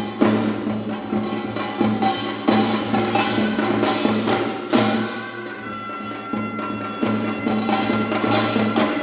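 Korean traditional ensemble playing: drum and janggu strokes with sharp irregular accents over a sustained low tone, and a high double-reed wind note held from about halfway through.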